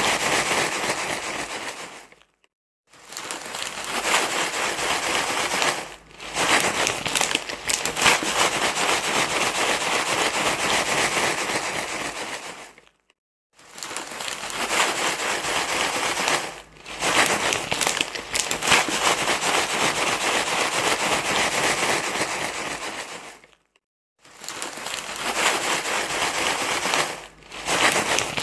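Loud, dense crinkly rustling, like something being crumpled and scrunched in the hands, in long spells broken by a brief silence about every ten seconds.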